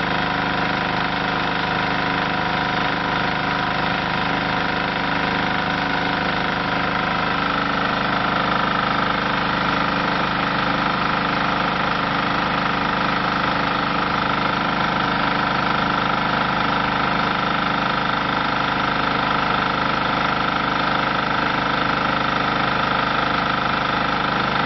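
Diesel engine of an M7MI hydraulic compressed earth block machine running steadily with a fast, even beat. A high steady tone grows stronger about seven seconds in.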